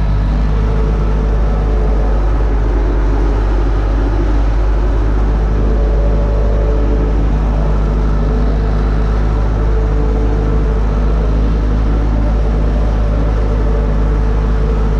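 UTB Universal 650 tractor's four-cylinder diesel engine running steadily under load while it pulls a disc harrow through the field, with a strong low hum.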